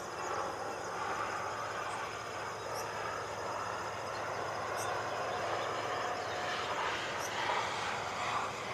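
Crowned slaty flycatcher parents giving short, thin, very high alarm call notes every two seconds or so, over a steady background noise like distant traffic.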